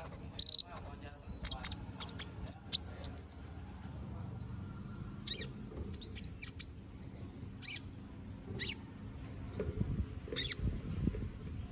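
Kolibri ninja (konin) singing: a rapid run of sharp, high chirps and twitters for the first three seconds or so, then single short high calls spaced about a second apart, over a faint low hum.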